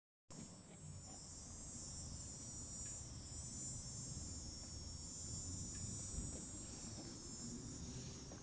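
Steady, high-pitched insect chorus over a faint low hum.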